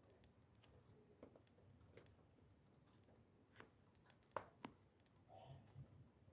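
Small wood fire crackling faintly: a few sparse, sharp pops over near silence, the loudest a pair about four and a half seconds in.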